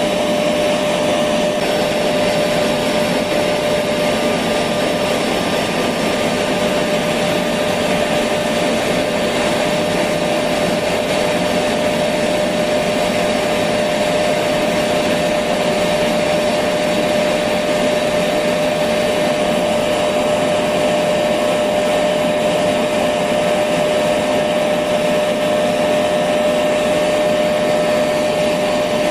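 Electric vacuum cleaner running steadily, a constant rushing hum with a steady whine, played as white noise to soothe a baby to sleep.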